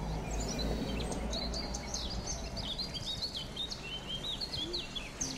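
Small birds chirping in quick, repeated hooked notes over a low, steady background rumble of street noise.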